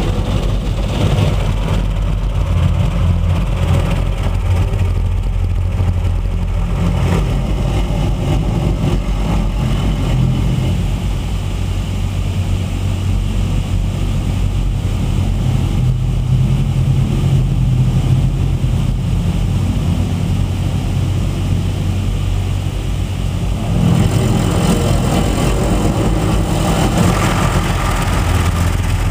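Automatic car wash heard from inside the car's cabin: a steady low rumble of machinery and the idling engine, with a louder hiss joining about 24 seconds in.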